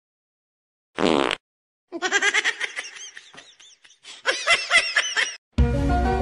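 A short buzzing noise about a second in, then a person laughing hard in quick high-pitched bursts for about three seconds.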